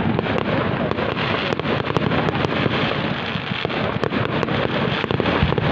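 Fireworks display going off: a dense, continuous crackle with many sharp bangs scattered irregularly through it.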